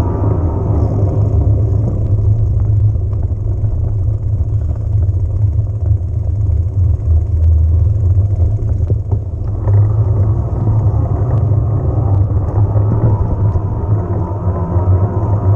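Riding noise from an electric mountain bike on a trail: a steady low rumble of wind buffeting the mount camera's microphone, mixed with tyre noise and small rattling clicks. The noise gets a little brighter about ten seconds in.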